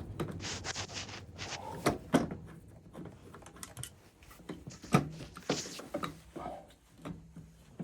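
Irregular clicks and light knocks of hand tools and metal parts being handled on an oil burner as the technician starts work to take its motor off, with one sharper knock about five seconds in.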